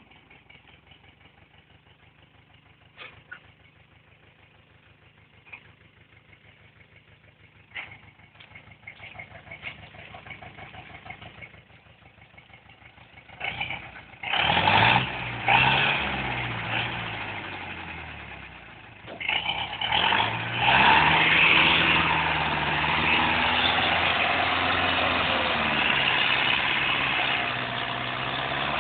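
DTC 640 forestry tractor's engine idling low with a few knocks, then revving up loud about halfway through, easing briefly, and revving again and holding high, rising and falling in pitch as it works.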